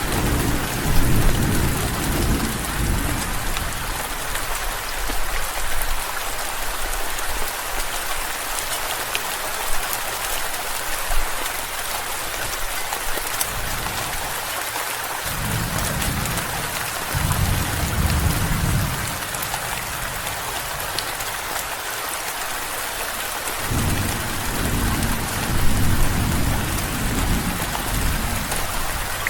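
Steady, heavy rain hissing throughout, with thunder rumbling low three times: right at the start, around the middle, and again near the end.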